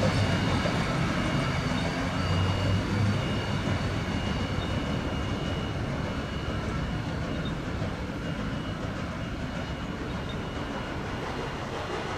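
Heritage railway carriages rolling away along the track, their steady rumble slowly fading as the train recedes. A thin high whine sounds in the first few seconds.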